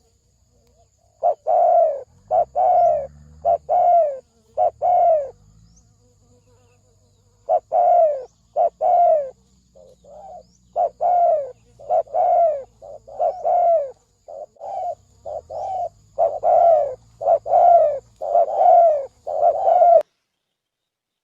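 Spotted dove (cu gáy) of the 'thổ sấm' type cooing in runs of short, downward-sliding notes: a short run early on, a pause, then a longer, denser run. It cuts off abruptly near the end. A faint steady high whine, like an insect, runs underneath.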